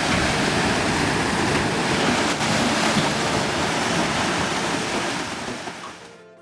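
Loud, steady rush of a muddy flood torrent pouring through a canal, fading out near the end.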